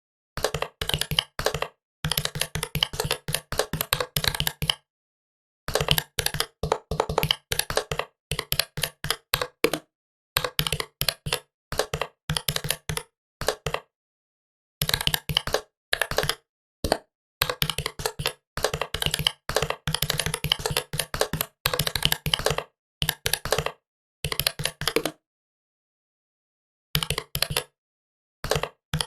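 Typing on a computer keyboard: fast runs of key clicks, broken by short pauses of about a second.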